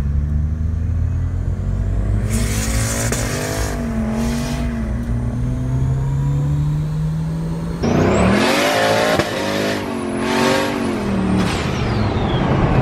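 Turbocharged LS1 V8 of a Holden VY Commodore SS running under load, heard from inside the cabin. The revs climb slowly at first. About eight seconds in it changes abruptly to a louder stretch where the revs swing up and down, with a high turbo whistle that rises and then falls away near the end.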